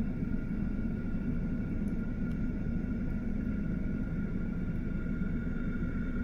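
A vehicle's engine running with a steady low rumble and a faint, steady high whine over it.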